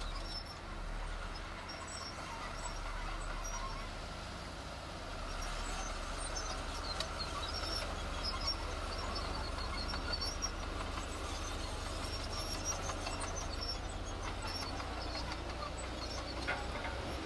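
Heavy earthmoving machinery running with a steady low engine rumble, with scattered sharp clinks and short high squeaks from about six seconds on.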